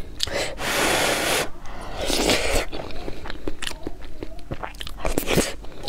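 Close-miked chewing and mouth smacking of a person eating a mouthful of tomato-and-egg fried rice, with many small wet clicks. Two longer scraping noises come about half a second and two seconds in, the second one shorter.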